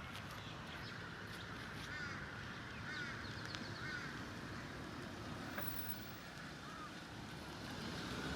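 A bird giving several short chirping calls, a few seconds apart, over steady outdoor background noise.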